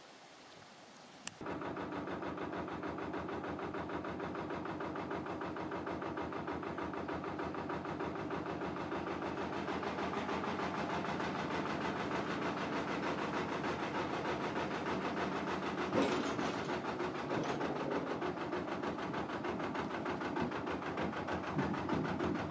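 Narrowboat diesel engine running steadily with an even, rapid beat. It comes in suddenly about a second in and grows slowly louder.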